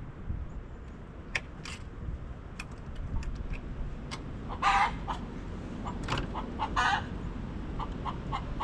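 Birds calling: a few short, harsh calls about five and seven seconds in and again at the very end, with scattered brief chirps between them over a low, steady rumble.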